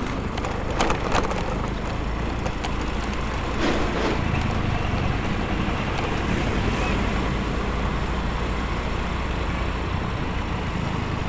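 Motorcycle running at a steady cruising speed, its engine hum mixed with wind and road noise; a few sharp clicks or knocks stand out in the first four seconds.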